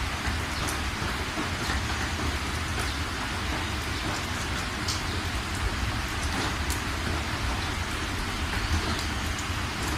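Steady rain falling, with scattered single drops ticking over an even hiss and a constant low rumble underneath.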